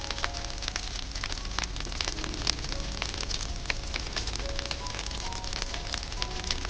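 Wood fire crackling, with frequent sharp pops and snaps over a steady hiss. Soft, sparse melody notes play underneath.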